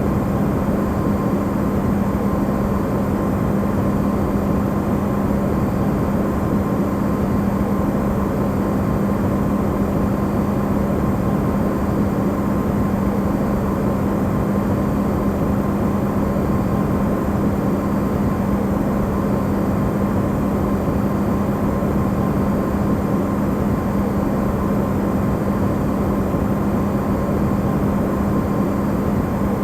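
Electrolux refrigerator running, recorded amplified: a steady hum with a strong low tone and a fainter higher tone over a dense rushing noise, unchanging throughout.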